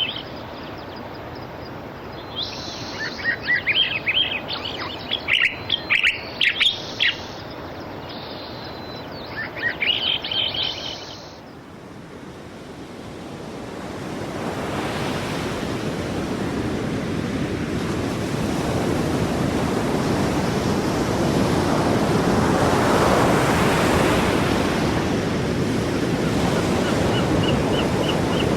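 Small birds chirping in short bursts over a low steady background for roughly the first ten seconds. Then sea surf rises as a broad rush that swells slowly to a peak about two-thirds of the way through and eases off a little.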